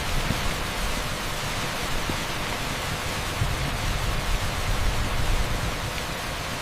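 Torrential rain pouring onto an asphalt street: a dense, even hiss with a low rumble underneath that swells and fades.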